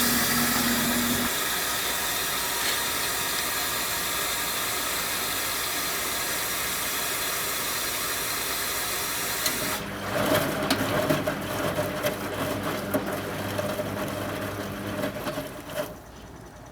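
1974 Zoppas Superautomatic 242 washing machine partway through its 80°C wash: a loud, steady rushing hiss for about ten seconds, then the drum motor hums and water churns unevenly for about six seconds before it goes quieter near the end.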